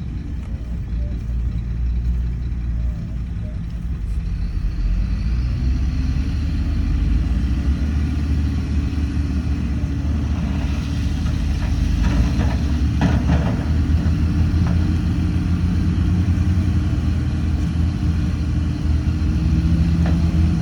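Heavy earthmoving machine's diesel engine running steadily under load, its pitch sagging and then climbing back as the revs change. A few metallic clanks come a little after halfway.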